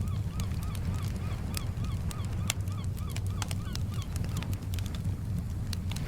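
A bird calling in a quick series of short, rising-then-falling calls, about three a second, that stop about two-thirds of the way through. Underneath are the sharp crackles and pops of a burning wood campfire and the steady low rumble of gentle surf.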